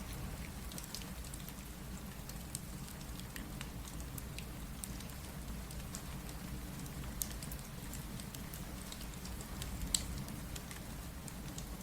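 Steady rain with the scattered pops and crackles of a wood fire; one sharper pop comes near the end.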